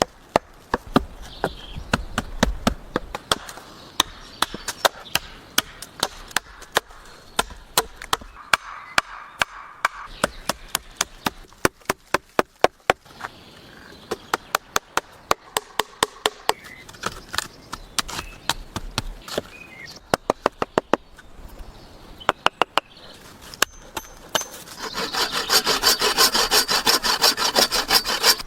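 Wood being worked with hand tools: many sharp knocks of a tool striking wood, at times in quick runs of about three or four a second. Near the end comes about three seconds of dense, rapid scraping on wood.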